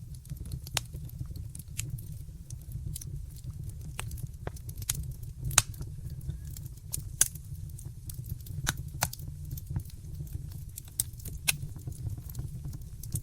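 Wood fire in a fireplace crackling: irregular sharp pops and snaps over a steady low rumble of the flames, with the loudest pops about five and a half and seven seconds in.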